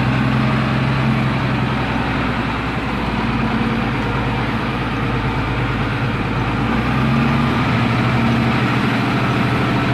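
MTZ-1221 tractor's six-cylinder diesel engine running steadily, its drone growing stronger about seven seconds in.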